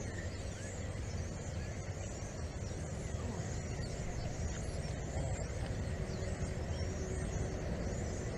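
Wind rumbling steadily on the microphone, with faint high chirping above it.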